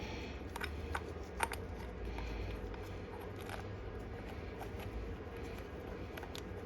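A few light clicks and taps from small carburetor parts being handled and fitted back together, over a steady low hum.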